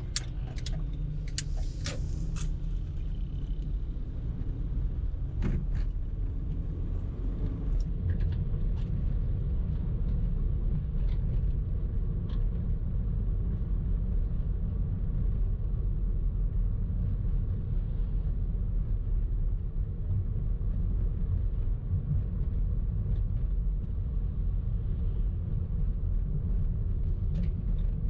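A car driving, a steady low rumble of engine and road noise, with a few sharp clicks in the first three seconds and one more about five seconds in.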